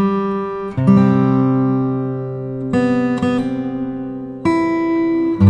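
Acoustic guitar strumming chords as intro music: a new chord struck about every one to two seconds and left to ring out.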